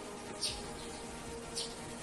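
Bird chirping: two short, high chirps that drop in pitch, over a faint bed of soft steady tones.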